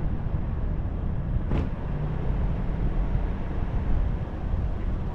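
Steady low rumble of outdoor background noise, with one short sharp tick about a second and a half in.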